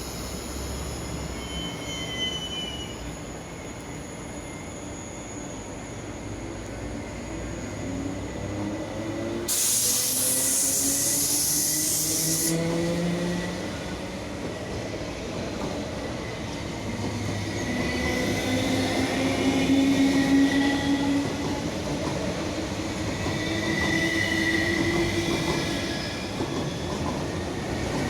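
MTR East Rail Line electric train pulling out of a station, its motors whining and rising in pitch as it picks up speed. About ten seconds in, a loud hiss of air lasts around three seconds.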